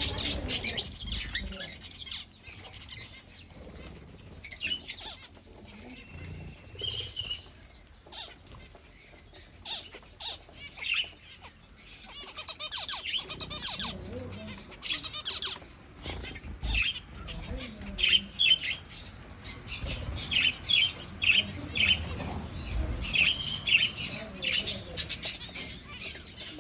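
Aviary finches calling in many short, rapid chirps, with wings flapping and fluttering.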